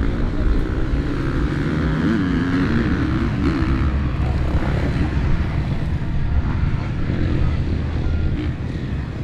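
Motocross motorcycle engines running on the track, a dense, steady engine noise with some rising and falling pitch early on.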